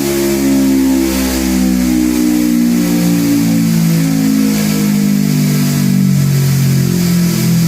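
Honda CBR250RR parallel-twin engine running a pull on a chassis dynamometer, its loud exhaust note gliding smoothly in pitch.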